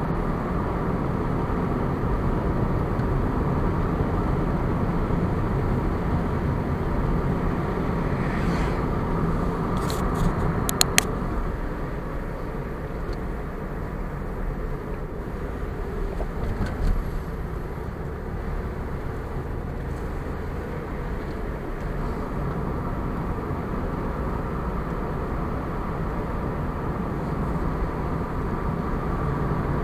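A car driving along a road: steady engine and tyre noise, with a few brief sharp clicks about a third of the way in.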